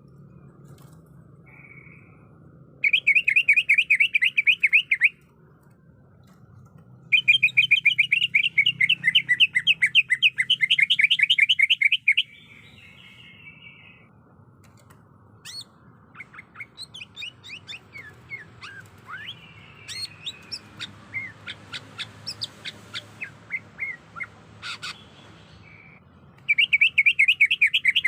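Cucak ijo (greater green leafbird) calling, the female's call used to lure males into song: bursts of fast trilled notes a few seconds long, three times, with a run of separate sharp chirps and sweeping whistles in between.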